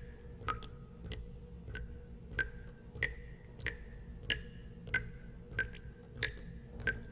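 Water drops falling one at a time into water in an even drip, about three every two seconds. Each drop is a short click with a brief ringing plink, some higher in pitch than others.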